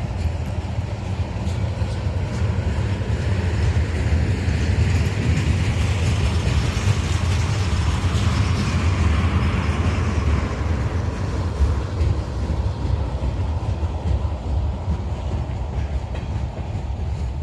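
Freight cars of a slow manifest train rolling past on the rails: a steady low rumble, with the steel-wheel rolling noise swelling for several seconds in the middle.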